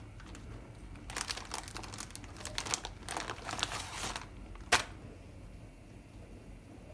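Plastic wrapping being handled, crinkling and crackling for about three seconds, then one sharp click.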